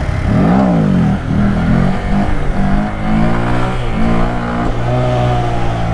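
Honda Grom's small single-cylinder 125 cc engine revving hard once, then accelerating up through the gears, its pitch climbing and dropping back at each shift, with wind noise over the microphone.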